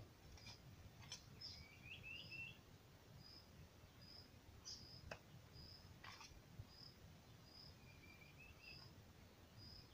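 Near silence: faint outdoor quiet with a bird repeating a short, high chirp about once every second, twice joined by a quick run of lower rising chirps. There are two faint clicks in the middle.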